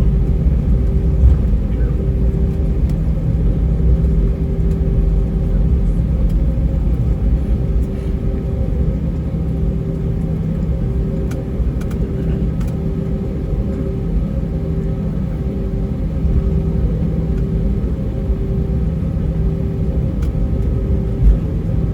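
Airbus A320-232 heard from inside the cabin while taxiing, its IAE V2500 engines running at low taxi power as a steady deep rumble. A steady hum above the rumble pulses on and off about once a second.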